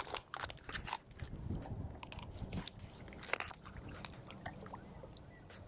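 Irregular crackling and clicking close to the microphone, busiest in the first second and again a little after three seconds in, with a faint low rumble in between.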